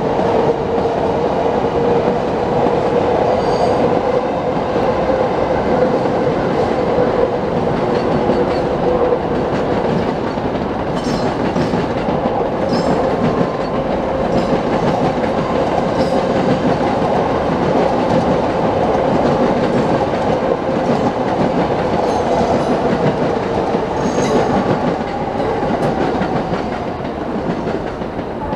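Green-striped electric commuter trains running past on the tracks: a continuous rumble of wheels on rail with clickety-clack over the rail joints and a steady whining tone. It eases off slightly near the end.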